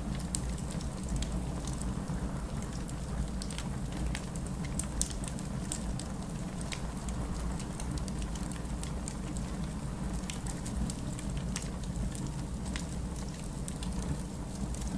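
Wood fire crackling in a fireplace: irregular sharp pops and clicks over a steady low rumble, with one louder pop about five seconds in.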